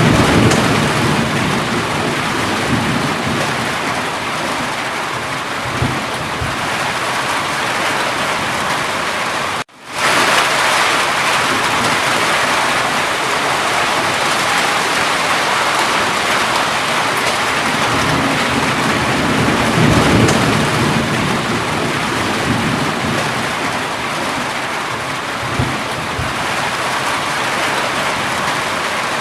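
Steady heavy rain, with low rumbles of thunder near the start and again about two-thirds of the way through. The sound cuts out for a split second about ten seconds in.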